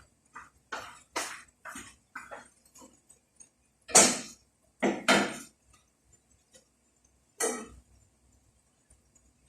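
Kitchenware clattering: a run of short knocks and clinks, loudest about four seconds in and again twice just after five seconds.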